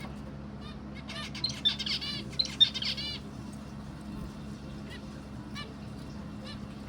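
A bird chirping: a quick run of high, repeated chirps starting about a second in and lasting about two seconds, then a few scattered fainter chirps, over a steady low hum.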